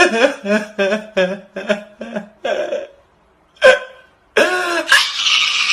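A person's voice making short, wordless sounds: about seven quick pitched bursts in the first two and a half seconds and one more after a pause. Then a longer harsh, noisy vocal sound that starts near the end.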